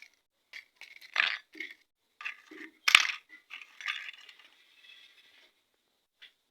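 Light metal clinks and scrapes of steel piston rings being handled and fitted onto a piston, with one sharp clink about three seconds in.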